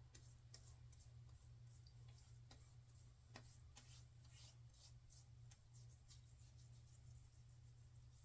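Near silence: faint soft rubbing and scattered small clicks of hands working aftershave balm onto the face, over a steady low hum.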